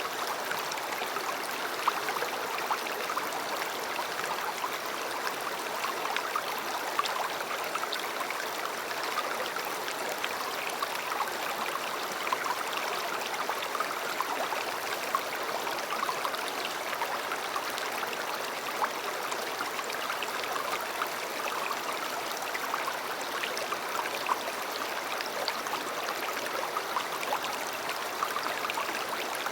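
River water flowing over stones, a steady rushing with many small splashes and gurgles.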